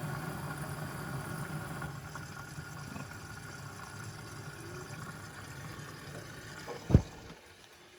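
Washing machine running: a steady hum that slowly fades, then a single sharp knock about seven seconds in, after which it is much quieter.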